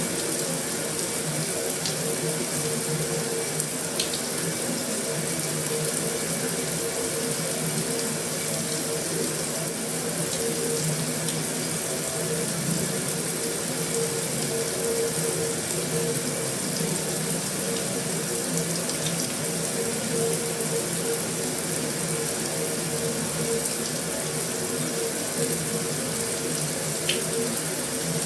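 Heavy rain falling steadily on a metal roof, an even dense patter with a few sharper single drop taps standing out.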